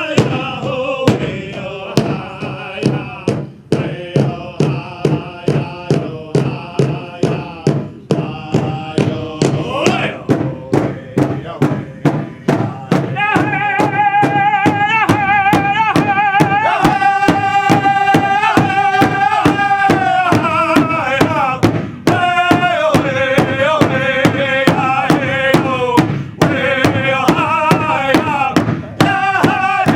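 Powwow drum group: a large hand drum beaten in a steady, even rhythm while male voices sing a chant, the singing growing louder and fuller about halfway through.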